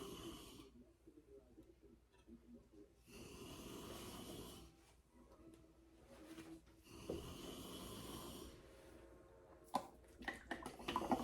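A plastic zip-top bag holding pecans being shaken: three rustling bursts of about two seconds each, a couple of seconds apart, with a few clicks and knocks near the end.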